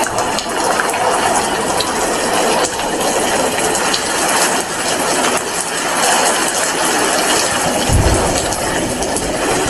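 Heavy rain falling steadily, a dense even hiss. A brief low thump comes about eight seconds in.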